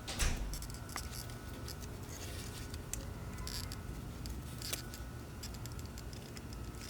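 Small parts being handled by hand during a fuel pump and sending unit assembly: a sharp knock just after the start, then scattered light clicks and short scrapes, over a steady low hum.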